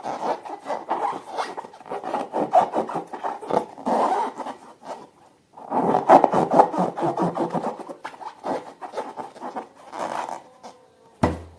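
Hands working slime-filled rubber balloons, a fast, continuous scratchy rubbing and squishing. It breaks off briefly about five seconds in and fades near the end, where a single sharp click is heard.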